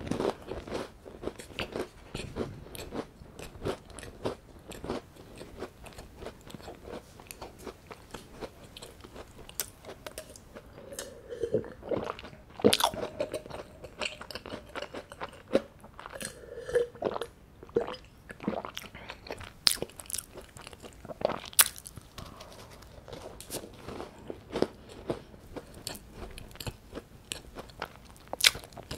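Close-miked chewing of crumbly scone, heard as many short, wet mouth clicks. About halfway through there are gulps as a drink is swallowed from a glass.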